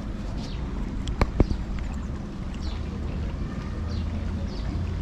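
Outdoor poolside ambience: a steady low rumble with two sharp knocks close together a little over a second in, and faint short high chirps.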